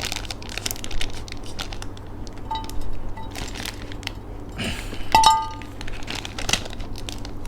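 Plastic snack packets crinkling and rustling as pieces are picked out, with a sharp, briefly ringing clink of a glass or ceramic dish about five seconds in.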